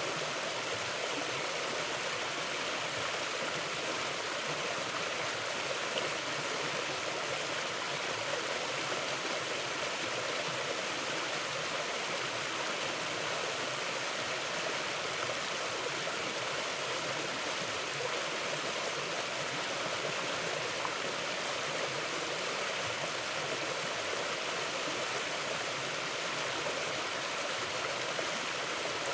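A mountain stream running over rocks: a steady rushing of water with some gurgling.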